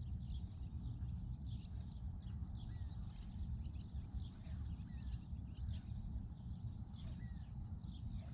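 Birds chirping in the morning: many short high chirps, with a short down-slurred whistle repeated every two seconds or so, over a low steady rumble.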